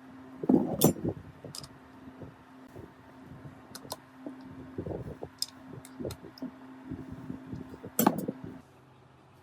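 Hard metal parts clinking and knocking together at irregular intervals, with louder knocks a little under a second in and about eight seconds in. A steady hum runs beneath and cuts off just before the end.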